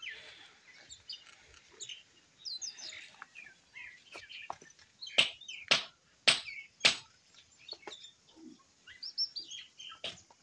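Small birds chirping. Near the middle come four sharp clicks about half a second apart, louder than the birds.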